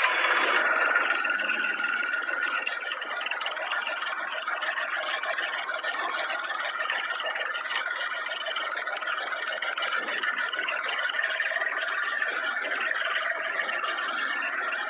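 A vehicle engine running steadily, heard thinly with no deep rumble.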